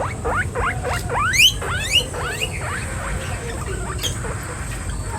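Guinea pig wheeking: a quick run of rising squeals, about three a second, that fades out after about three seconds.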